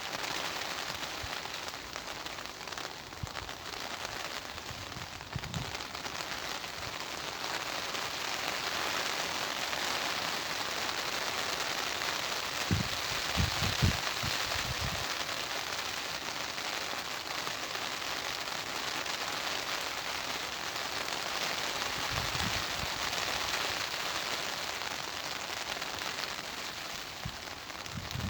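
Steady rain falling in a garden, an even hiss of drops throughout. Short low gusts of wind buffet in, strongest around the middle.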